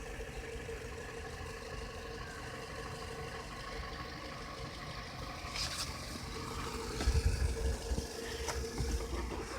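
1975 MerCruiser 3.0 four-cylinder engine being cranked by its starter, turning over without catching. A steady whine sits over a low, rhythmic churning that grows louder about seven seconds in.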